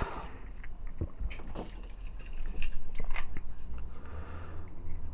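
Light clicks and small knocks of the Gigapower Gutter figure's parts being handled and fitted together by hand, irregular and spread over a few seconds.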